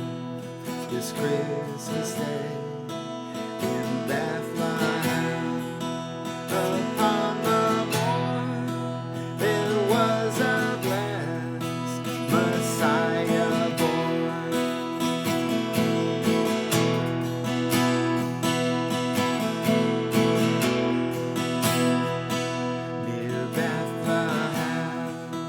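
Seagull S6 mahogany steel-string acoustic guitar, strummed and picked in a steady instrumental passage of a Christmas carol.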